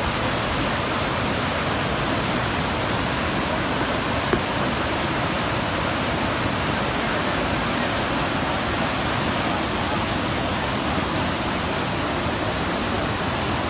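Hocking River rapids: a steady rush of fast-flowing water, with one brief click about four seconds in.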